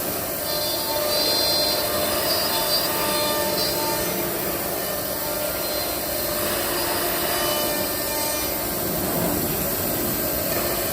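CNC machining centre's router spindle cutting into a wooden door, a steady cutting and rubbing noise.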